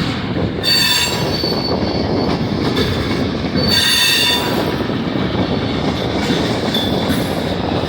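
Freight train cars rolling past, their wheels on the rails making a steady rumble. Wheel squeal rings out in high tones about a second in and again around the middle, with a brief one near the end.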